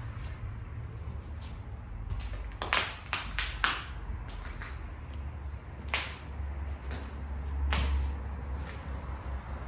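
Several sharp knocks or clanks: a cluster of four between about two and a half and four seconds in, and single ones about six and eight seconds in, over a low steady rumble.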